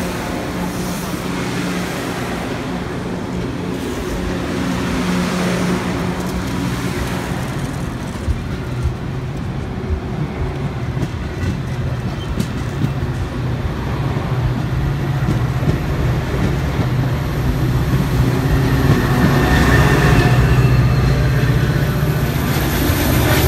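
A Metra commuter train passing close by: bilevel passenger cars rolling past with wheel clicks over the rail joints. Near the end the diesel locomotive pushing at the rear draws near, and its engine hum grows louder.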